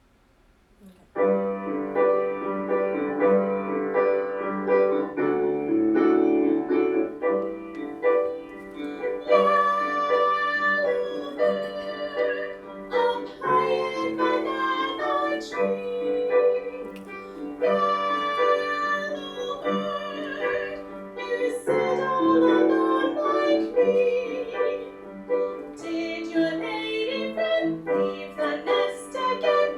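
A recorded song plays back: piano accompaniment with voices singing. It starts about a second in, after near silence.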